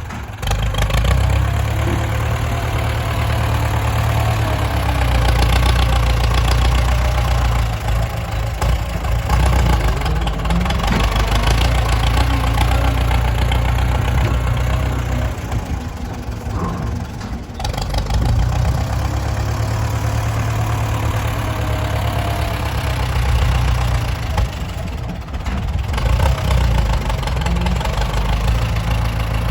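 Heavy diesel engine running with a loud low rumble that swells and eases several times as its load changes.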